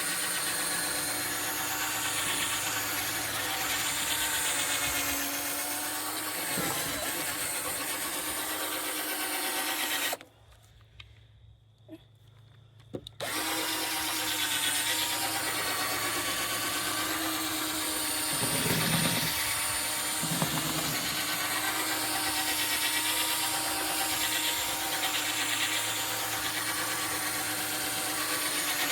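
Electric drill spinning a 2000-grit sanding disc against a wet plastic headlight lens, running steadily. It stops for about three seconds around ten seconds in, then starts up again.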